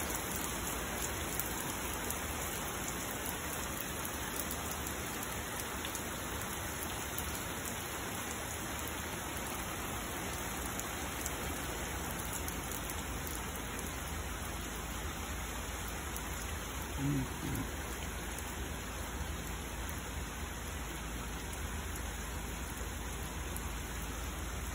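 Steady rain falling on a wet concrete driveway and a parked car, an even, continuous hiss. A brief low sound rises above it about two-thirds of the way through.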